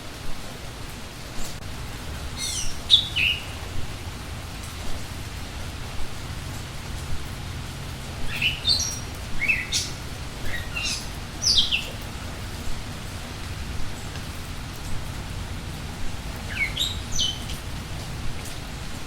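Steady rain falling while a songbird sings three short bursts of quick, high, downward-sliding notes: a few seconds in, a longer run in the middle, and again near the end.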